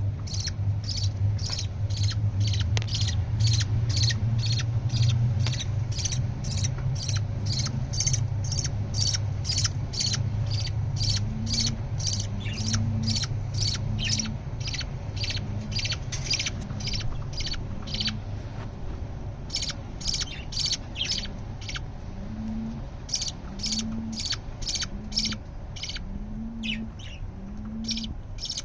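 Budgerigar chicks giving begging calls while being fed: short, high chirps repeated about twice a second, with a couple of brief pauses late on. A low steady hum runs underneath for most of the first two-thirds.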